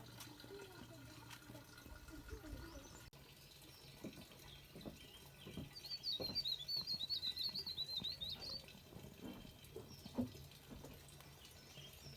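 Small songbird singing a rapid twittering run of high chirps for about two and a half seconds, starting about halfway through, over faint steady background noise with a few soft knocks and one sharper knock near the end.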